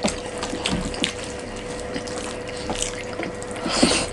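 Close-miked eating sounds: wet chewing and mouth noises with scattered soft clicks, a louder wet burst near the end, over a faint steady hum.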